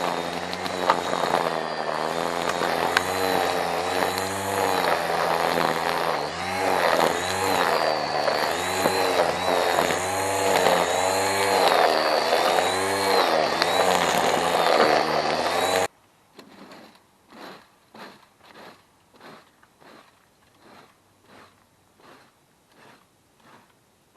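The petrol engine of a handheld yard tool runs under load while clearing overgrowth, its pitch rising and falling over and over as it bites into the growth. About two-thirds of the way through it cuts off suddenly, giving way to faint rhythmic strokes about one and a half per second.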